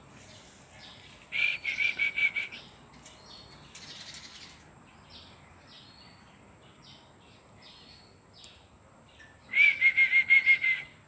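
Bird calls: two loud runs of quick repeated chirping notes on one pitch, about a second in and again near the end, with faint short chirps between.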